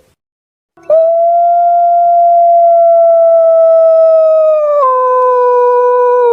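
Puter pelung dove giving a strange, very long drawn-out call: one steady held note starting about a second in, dropping to a lower pitch in a single step about five seconds in.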